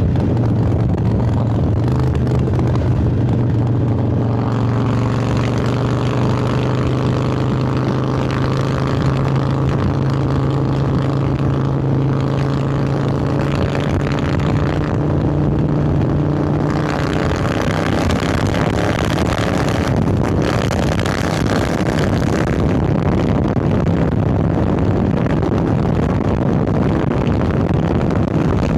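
Harley-Davidson Sportster 1200 Roadster's air-cooled V-twin running through Vance & Hines Hi-Output Grenades 2-into-2 exhaust while riding, with a steady engine note. About two-thirds of the way through, a louder rushing hiss comes in and the engine's pitch becomes less distinct.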